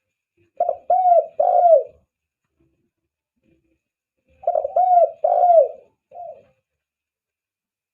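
Spotted dove (tekukur) cooing: two phrases about four seconds apart, each a short note followed by two longer coos that rise and fall, with a short extra note trailing the second phrase.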